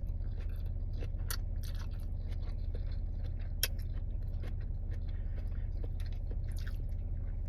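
A person chewing food close to the microphone, with small wet mouth clicks and a few sharper ticks, over a steady low hum.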